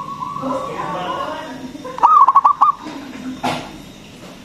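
Zebra dove (local perkutut) cooing: a held note at the start, then about two seconds in a quick run of stuttering, rolling coo notes. A brief noise sounds about three and a half seconds in.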